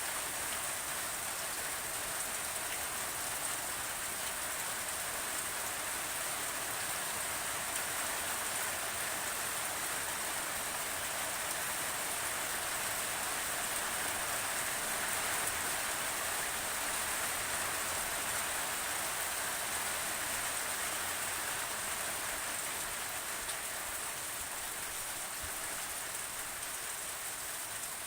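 Steady rainfall, an even hiss of rain pattering on a surface with no let-up.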